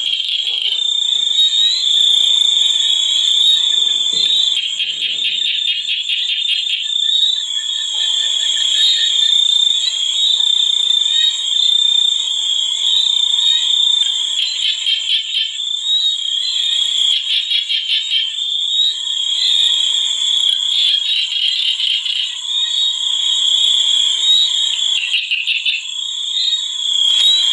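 Nature soundscape of a chorus of calling animals: a steady high-pitched shrill with rapid pulsing trills that swell and fade every few seconds.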